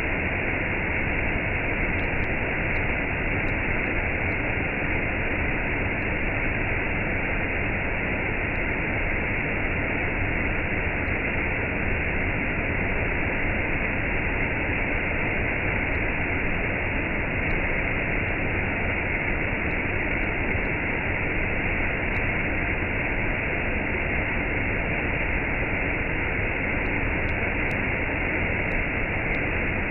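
Waterfall with a cascade: steady, unbroken rushing of falling water.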